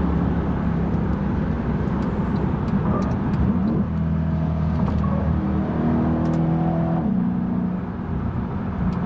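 Mercedes E63 AMG's twin-turbo V8 heard from inside the cabin while driving, a steady drone that changes pitch twice, about four and seven seconds in. The sound cuts off suddenly at the end.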